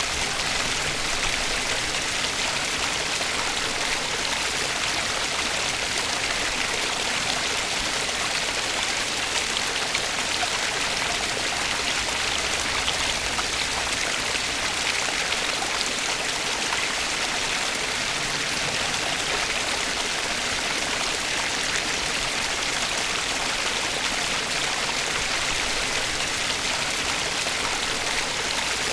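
A stream flowing steadily: an even, bright rush of water with no breaks or changes.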